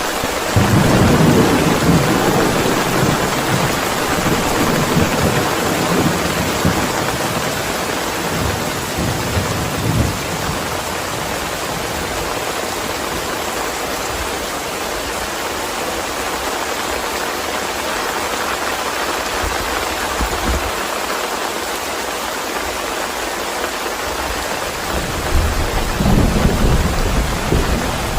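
Steady rain falling with rolls of thunder: a deep rumble about a second in, a smaller one around ten seconds, and another building near the end.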